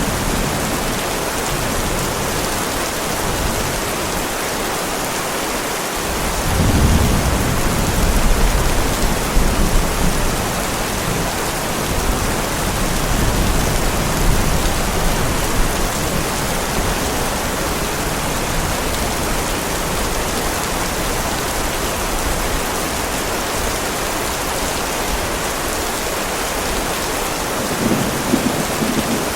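Heavy rain falling steadily with rolling thunder: a low rumble swells about a quarter of the way in and fades, and another builds near the end.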